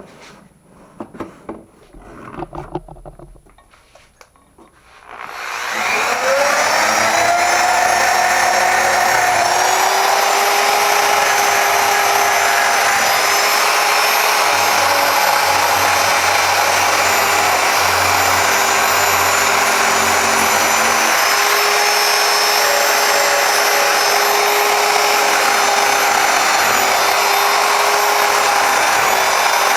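Clattering handling knocks, then an electric power tool switches on about five seconds in, its pitch rising as it spins up, and runs steadily with a loud grinding hiss as it strips rust off a steel tractor wrench.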